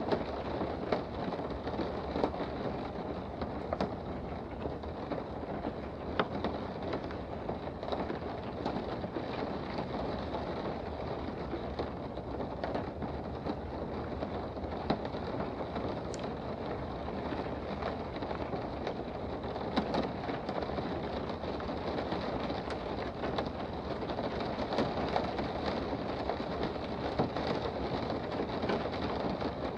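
Steady rain heard from indoors: an even wash of rainfall with scattered sharp drips and taps through it.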